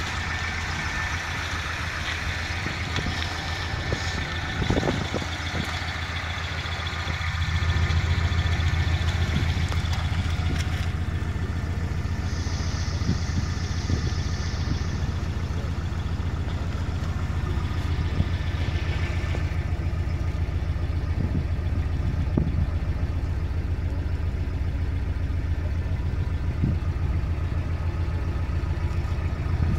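1966 Cadillac Fleetwood 75 limousine's 429 V8 idling steadily: a low, even throb that grows louder about seven seconds in.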